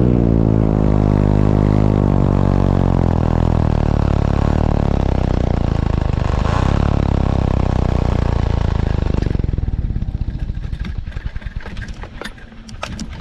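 A small propeller-driven aircraft engine passing close by. It runs steadily, its pitch dropping as it goes past about six seconds in, then it fades away.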